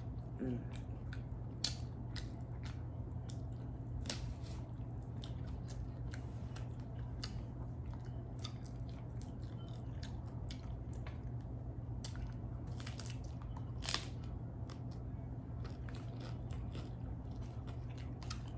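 Close-miked chewing of a crunchy hard-shell ground beef taco: irregular crisp crunches and wet chewing, over a steady low hum.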